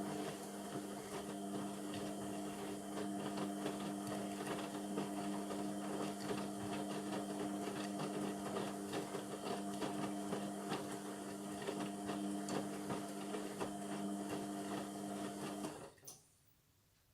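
Indesit MTWC71252WUK washing machine running mid-cycle, a steady hum with a constant rattle, stopping abruptly about sixteen seconds in.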